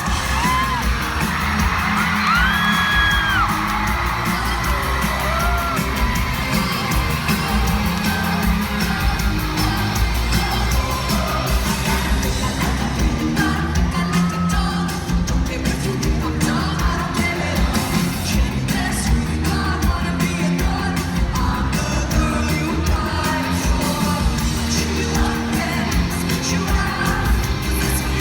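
Live pop concert music heard from within the audience, with a heavy, steady bass beat filling the hall. Fans scream and whoop over it, most clearly in the first few seconds.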